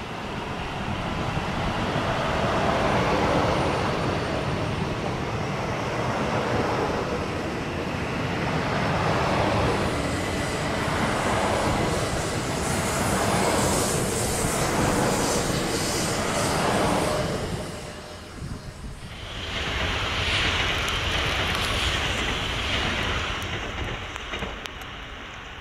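Shinkansen bullet train passing on snowy track, its running noise rising and falling in repeated swells as the cars go by. The sound drops briefly about three-quarters of the way through, surges again, then fades near the end.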